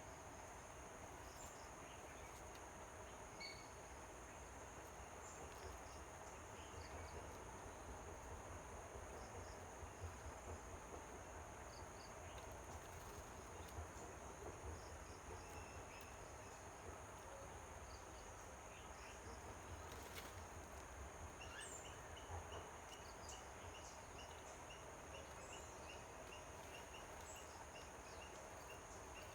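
Faint outdoor ambience: a steady high insect drone with scattered short bird chirps. About two-thirds of the way through, a bird starts repeating one short note a little under twice a second.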